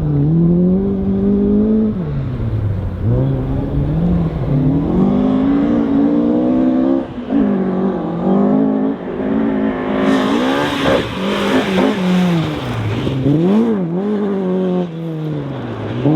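Rally car engine revving hard, its pitch climbing and dropping again and again with gear changes and lifts off the throttle. About ten seconds in, a loud rushing noise joins for a few seconds.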